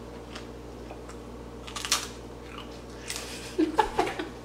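A person chewing a crisp homemade cinnamon-sugar chip topped with fruit salsa and whipped cream: a few scattered crunches through the bite, with short appreciative mouth sounds near the end.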